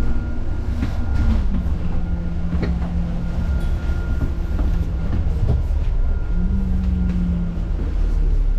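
Bus engine and transmission heard from inside the moving bus: a steady low drone and rumble whose pitch drops about a second in, drops again later, then steps up as the gears change. Scattered rattles and clicks run through it.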